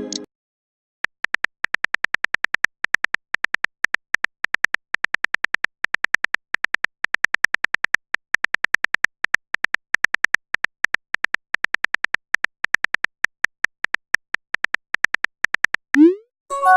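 Phone keyboard tap sounds: runs of short, sharp clicks, several a second, as a text message is typed. Near the end comes a short rising pop, a message being sent.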